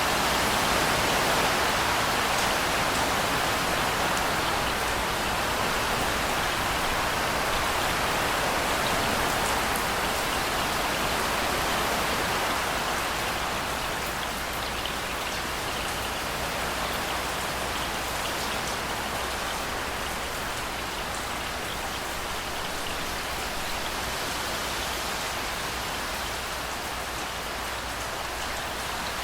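Steady rain falling, an even hiss of drops on hard surfaces, easing slightly about halfway through.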